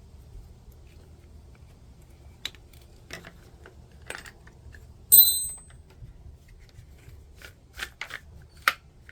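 Small parts and hand tools being handled on a workbench: scattered light clicks and taps, and about five seconds in a small metal piece clinks down onto a hard surface with a brief high ring, the loudest sound.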